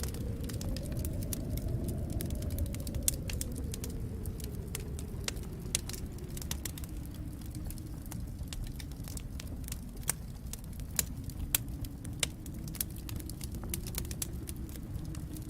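Wood fire crackling in a fireplace, with many sharp, irregular pops over a low, steady rumble.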